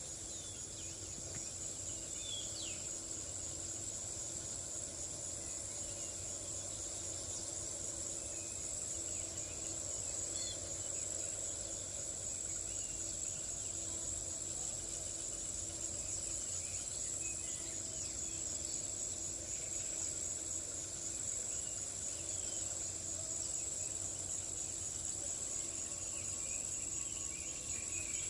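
A steady high-pitched insect-like trill runs throughout, with short, scattered twittering chirps of swiftlets over it.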